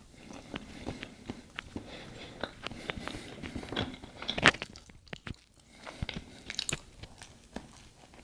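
Close mouth sounds of a person chewing a bite of bread with cinnamon butter: irregular wet clicks and smacks, the loudest about four and a half seconds in.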